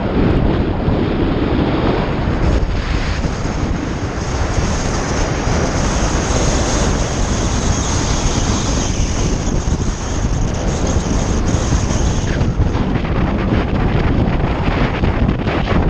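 Loud, steady wind noise buffeting the microphone while riding a bike, a rushing haze that is heaviest in the low end.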